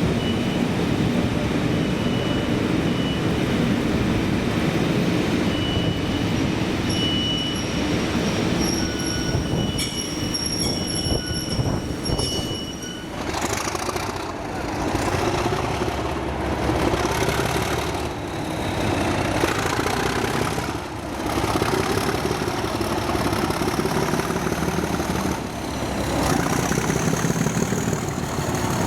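A train passing on the track: a continuous rumble of wheels on rails, with thin high-pitched wheel squeal in the first half and brief dips in the rumble in the second half.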